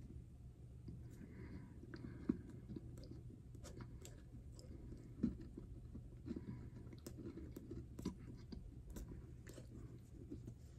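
Faint chewing of a ball of edible clay in the mouth, with many small crunching clicks and two sharper cracks, about two seconds in and about five seconds in.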